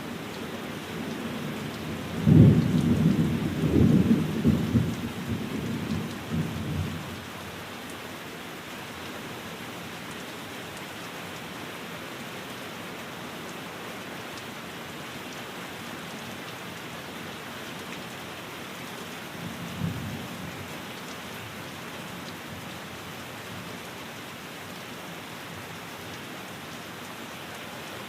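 Steady rain falling, with a loud low rumble of thunder about two seconds in that rolls on for some five seconds, and a second, faint short rumble near twenty seconds.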